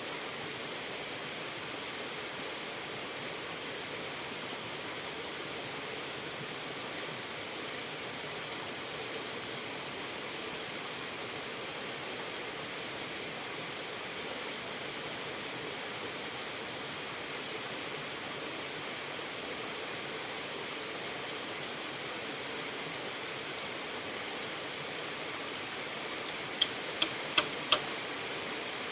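Steady hiss of running water, like a fast-flowing stream or heavy rain. Near the end comes a quick run of five sharp clicks.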